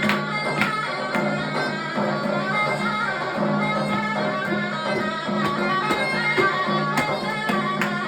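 Davul and zurna playing Turkish folk music: a reedy zurna melody over a low steady drone, with regular davul drum strokes.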